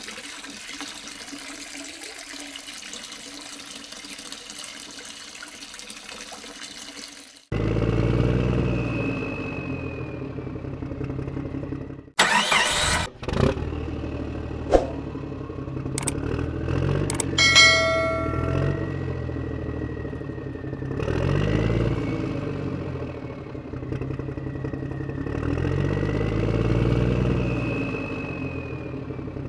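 Tractor engine sound effect: after a steady hiss, the engine starts suddenly about seven seconds in and runs, its revs rising and falling every few seconds. A brief loud clatter sounds near the middle.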